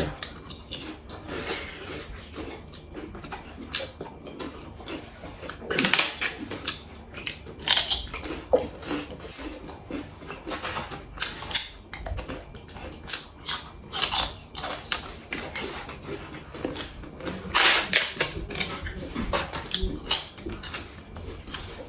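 Eating at a table: irregular light clicks and clinks of cutlery and dishes, with a few louder, longer scraping noises about six seconds in and again near the end.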